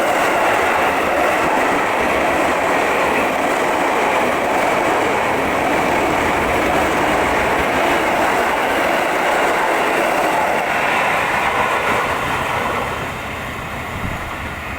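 KRL Commuter Line electric commuter train passing close by: a loud, steady rush of running noise that drops away about thirteen seconds in.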